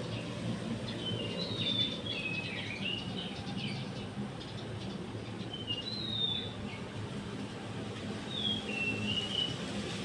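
A songbird whistling in three short phrases of sliding, up-and-down whistles: one about a second in, one around six seconds, and one near the end. A steady low rumble runs underneath.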